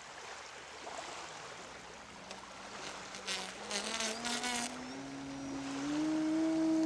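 Engine of a radio-controlled scale Beaver floatplane model buzzing on the water, its pitch rising in steps and growing louder as the throttle is opened for the takeoff run.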